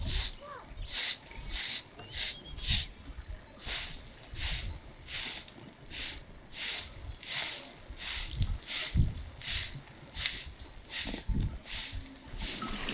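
Rhythmic swishing strokes, about two a second, each a short hiss.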